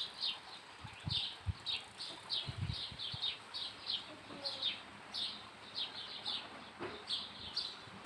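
A small bird chirping over and over, short high notes each falling in pitch, about two or three a second, with a few soft low thumps underneath.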